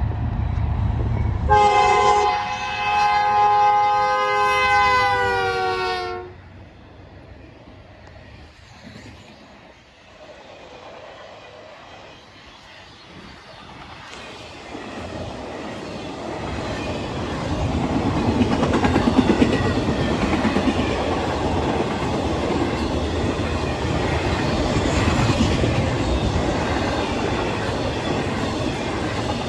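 A train horn sounds a multi-note chord for about four and a half seconds, its pitch dipping slightly just before it stops. After a quieter spell, the rumble and wheel clatter of a passing train build up about fifteen seconds in and continue.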